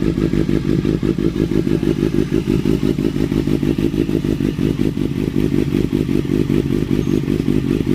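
Kawasaki Z800's inline-four engine idling steadily through Arrow headers and a Leo Vince GP Pro aftermarket muffler, an even rapid low pulsing with no revs. It is warming up after a start, with the idle rpm settling.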